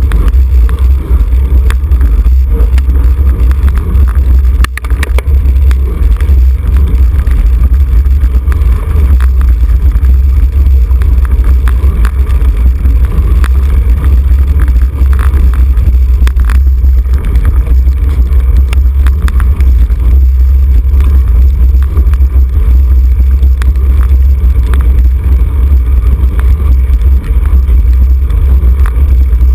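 Wind buffeting the microphone of a camera mounted on a racing bicycle at speed: a loud, steady low rumble, with faint scattered ticks and rattles over it.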